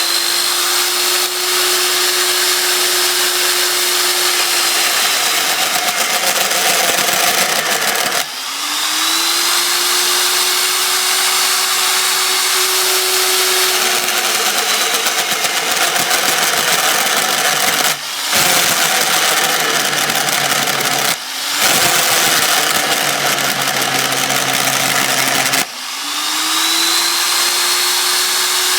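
Homemade drill's motor running a 30 mm hole saw cutting into 9 mm thick stock: a steady whine over harsh cutting noise. A few times the sound drops out briefly and the whine climbs back up to speed.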